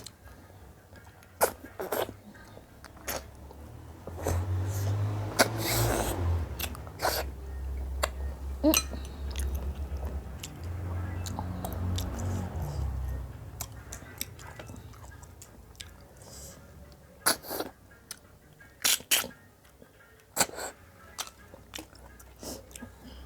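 Close-up eating sounds of a person eating freshwater snails (ghongi) and other food: chewing and mouth smacks, with many short sharp clicks scattered throughout. A louder stretch with a low rumble comes in the middle.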